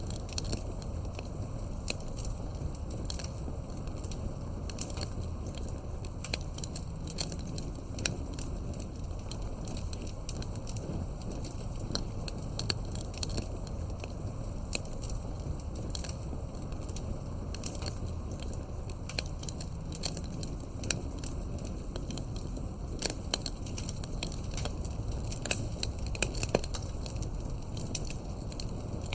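Campfire crackling, with irregular sharp pops over a steady low rumble of burning wood. The pops come thicker and louder near the end.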